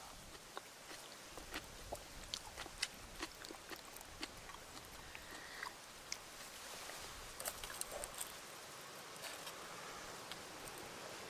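Wood campfire crackling: irregular sharp pops and snaps, a few a second, over a faint steady hiss.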